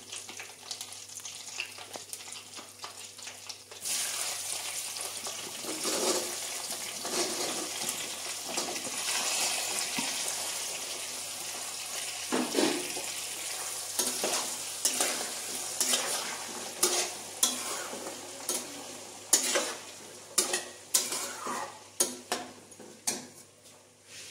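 Amla (Indian gooseberries) dropped into hot oil and fried panch phoron in a wok, bursting into a loud sizzle about four seconds in that slowly dies down. A flat metal spatula stirs them, its knocks and scrapes against the pan growing more distinct near the end.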